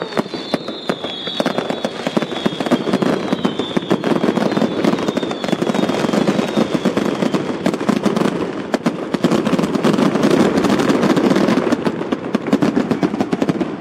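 Fireworks display: dense, continuous crackling and popping from fountains and aerial bursts. Over the first half several high whistles overlap, each sliding slowly down in pitch.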